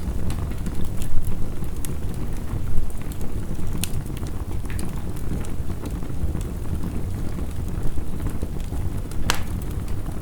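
Wood fire crackling, with scattered sharp pops and one louder pop near the end, over the steady low rush of heavy rain.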